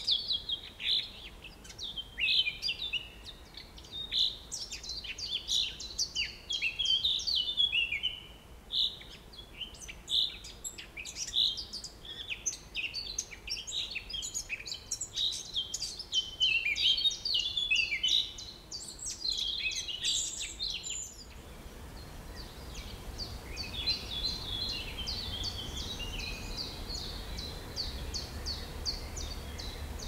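Birds calling, many short, rapid chirps and trills overlapping. About 21 s in the sound changes abruptly to a denser, evenly repeated chirping with a low rumble underneath.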